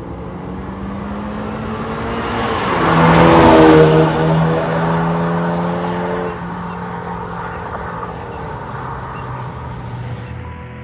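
BMW 320i's B48 2.0-litre turbocharged four-cylinder running through an MS-R valved cat-back exhaust, accelerating. The sound grows to its loudest about four seconds in, falls away around six seconds, and carries on as a lower, steady exhaust note.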